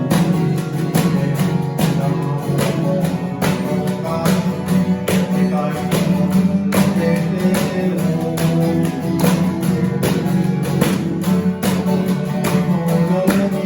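A band playing a song live, led by strummed acoustic guitar with a steady rhythm.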